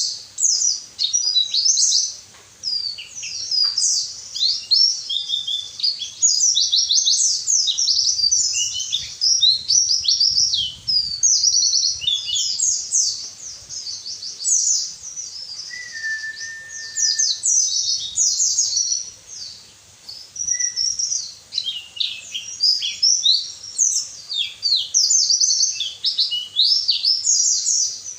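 White-eye (pleci) song: a long, rapid run of high twittering chirps and trills with only brief gaps, and a short lower whistle about halfway through. It is a masteran, a tutor recording for teaching caged pleci to sing.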